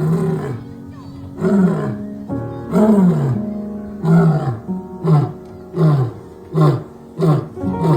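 Lion roaring bout: a few long, deep roars that fall in pitch, then a run of shorter grunting roars that come faster, about one every 0.7 s toward the end.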